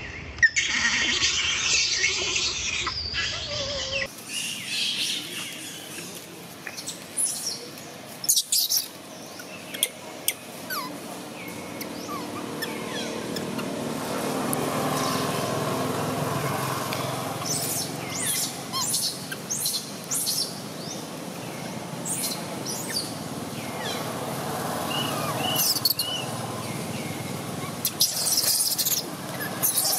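Birds chirping, with short high calls scattered throughout and three quick arched whistles in a row near the end, over steady outdoor background noise.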